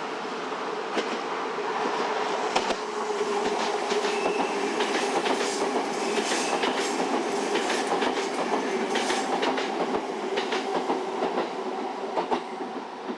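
Electric commuter train running past close by: a steady rumble of running noise with an irregular run of sharp clacks as its wheels cross the rail joints.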